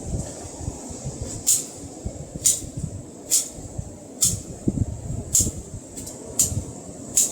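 Hand pruning shears snipping plant stems or leaves, a sharp cut about once a second, seven in all, over the rustle of the plants being handled.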